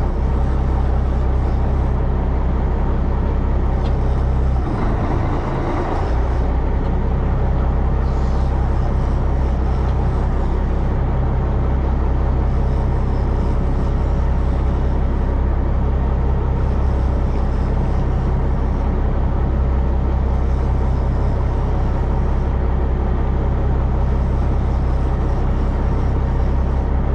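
Fishing boat's engine running steadily with a low drone, and a short rush of broader noise about five seconds in.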